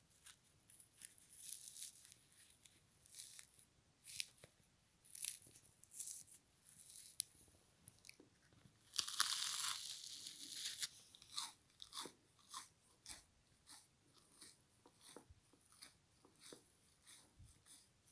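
Crunching and chewing of a frozen kitchen sponge: ice-stiffened foam bitten and chewed in short, irregular crunches, with a longer, louder stretch of crunching about nine seconds in.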